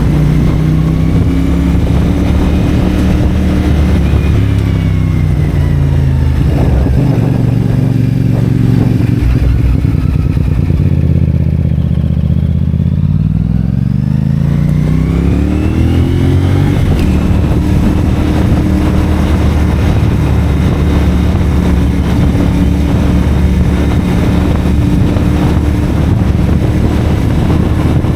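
CFMoto 450SR parallel-twin engine running through a Yoshimura AT2 slip-on exhaust while riding. Around midway the engine note drops as the bike slows, then rises again as it accelerates, before settling into a steady cruise.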